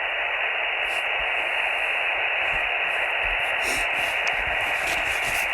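Receiver hiss from a shortwave amateur radio transceiver's speaker on an empty frequency: a steady, even rush of noise squeezed into a narrow voice-band passband, the sound of the set listening in single-sideband mode with no station coming through.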